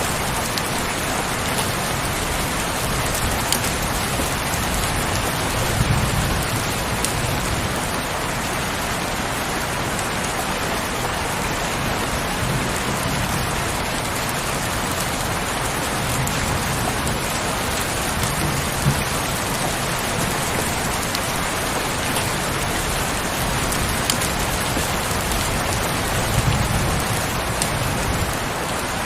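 Steady heavy rain falling in a dense, even patter, with a few slightly louder swells.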